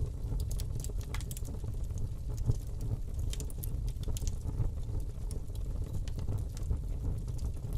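Wood fire burning in a fireplace: many sharp crackles and pops, several a second, over a steady low rumble, with one louder pop about two and a half seconds in.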